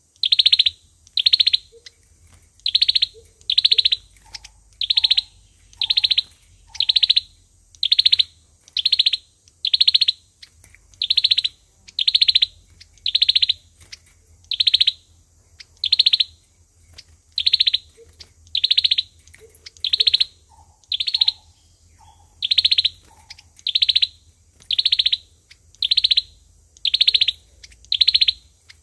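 Sâu dừa bird calling over and over at an even pace of about one high call a second, each call sliding down in pitch. A few faint, lower short notes come in now and then.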